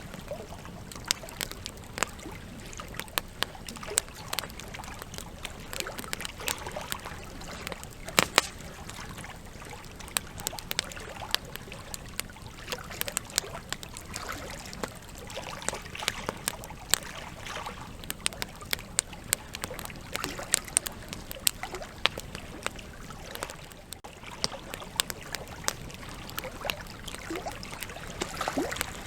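Wood campfire burning, its logs crackling and popping at irregular moments over a steady soft hiss, with a few louder snaps, the sharpest about eight seconds in.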